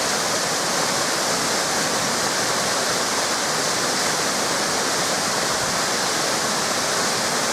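Waterfall cascades of a mountain river pouring steadily, a constant rushing of falling water.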